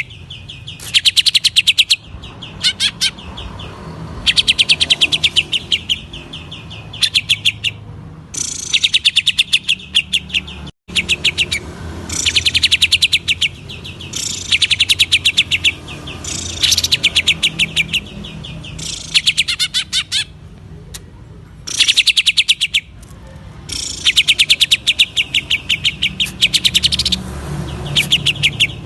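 Green leafbird (cucak ijo) singing in the rapid stuttering 'ngentrok' style: phrases of about a second of fast, dry repeated notes, one after another with short pauses, over and over. A faint steady low hum runs underneath.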